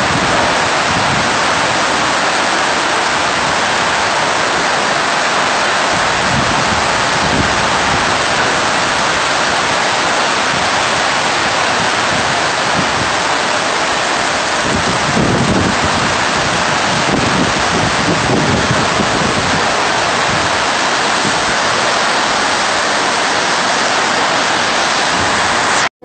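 Heavy rain pouring down on a flooded paved courtyard, a loud, dense and steady hiss, with a few low rumbles about two-thirds of the way through.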